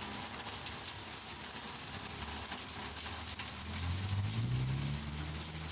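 Heavy rain pouring down in a steady hiss. About four seconds in, a low hum rises in pitch.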